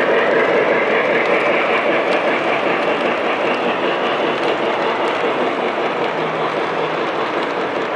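Model train running on a layout, a steady mechanical running sound over the continuous hum of a busy exhibition hall.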